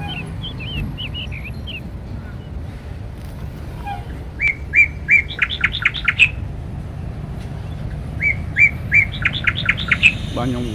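A songbird singing two phrases, each a few clear repeated notes breaking into a quick run of sweeping notes, after a few short chirps at first. A steady low rumble of road traffic runs underneath.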